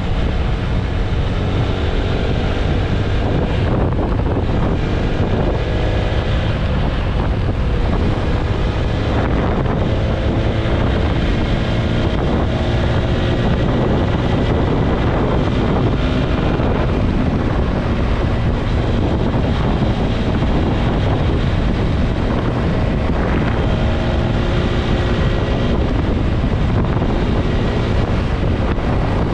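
Wind rushing over the microphone of a TVS Apache RTR 160 4V motorcycle at highway speed. The single-cylinder engine's note sits beneath the wind and shifts in pitch now and then.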